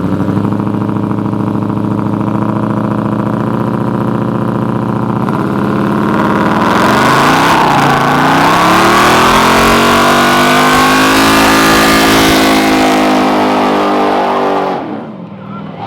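Car engine revving hard and held at high revs for a burnout. About six and a half seconds in, a loud hiss of spinning tyres joins it. The revs dip briefly, climb back and hold, then drop away near the end.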